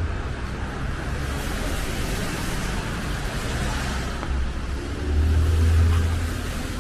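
Street traffic: a car passing on a wet, snowy road, its tyre hiss swelling and fading, over a low rumble that grows louder about five seconds in.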